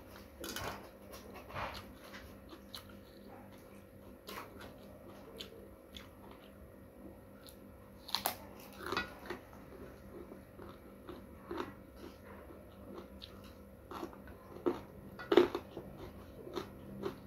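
Close-miked eating: crunchy bites and chewing of raw vegetables and rice eaten by hand, with sharp crunches about 8 seconds in and a louder one near the end.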